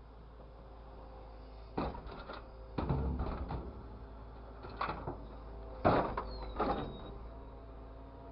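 A series of knocks and clatters, in about five short clusters, the loudest about six seconds in, over a low steady background hum.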